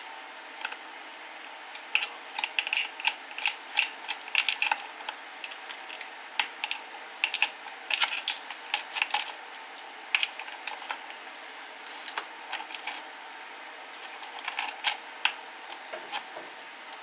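Small hand tools clicking and clinking against the metal parts of a chainsaw engine as fasteners are worked loose: many short, sharp clicks in irregular clusters.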